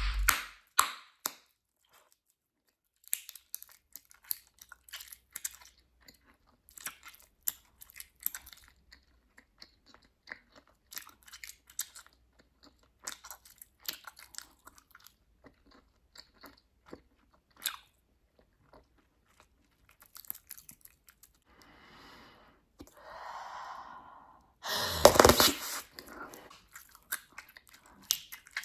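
Bubblegum being chewed close up, with many short wet clicks and snaps. Near the end there is a breathy stretch as a bubble is blown, then a loud burst as the bubble is popped, the loudest sound of all.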